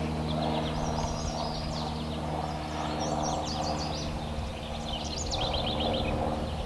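Small songbirds chirping in quick repeated series of high notes, over a steady low drone.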